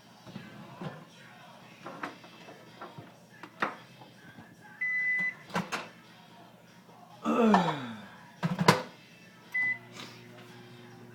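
Kitchen clatter of clinks and knocks, with two short electronic beeps, one about five seconds in and one near the end, then a steady low electrical hum that starts just after the second beep.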